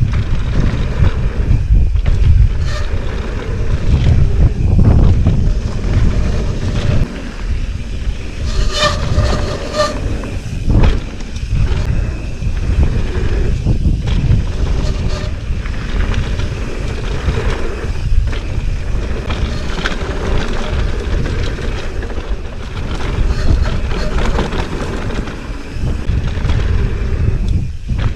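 Wind buffeting the microphone, a loud, continuous low rumble. A brief pitched tone sounds about nine seconds in.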